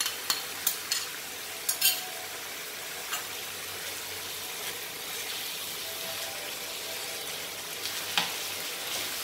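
Chicken and freshly added chopped tomatoes sizzling in a frying pan, with a spoon clicking against the pan several times in the first two seconds and once near the end as the mixture is stirred.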